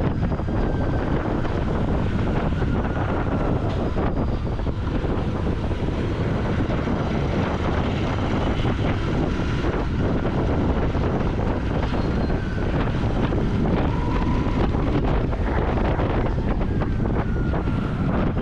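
Royal Enfield Continental GT 650's parallel-twin engine and exhaust running steadily while riding, mixed with wind buffeting the microphone.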